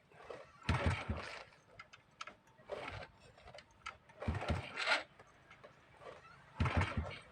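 A Honda motorcycle being kick-started: four kicks about two seconds apart, each a short mechanical clatter of the kick-starter turning the engine over. The engine does not catch and run.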